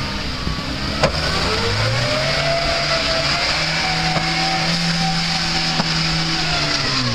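Land Rover Series 4x4 engine working up a rocky climb: the revs rise over a couple of seconds, hold steady under load, then drop back near the end. A single sharp knock sounds about a second in.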